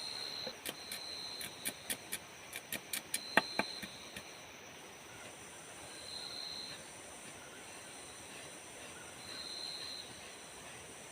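Tropical forest insects keep up a steady high-pitched buzzing chorus, with one higher buzz coming and going in short spells. During the first four seconds there is a quick, irregular run of about fifteen sharp clicks, one louder than the rest.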